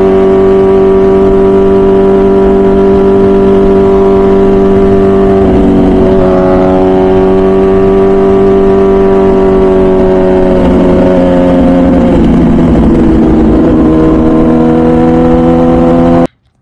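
MV Agusta Brutale 1000RR's 998cc inline-four with a full titanium Arrow exhaust running hard at a steady high engine speed under way. Its pitch steps down about three-quarters of the way through, like a gear change, then climbs slowly again before the sound cuts off suddenly.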